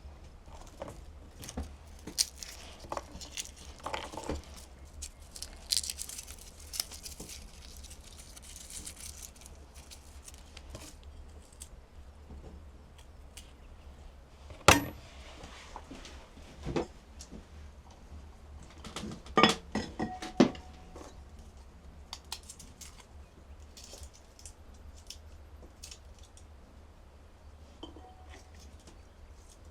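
Household clatter of small hard objects being handled: scattered clinks and knocks, with one sharp knock about halfway through and a quick run of knocks a few seconds later, one of them ringing briefly.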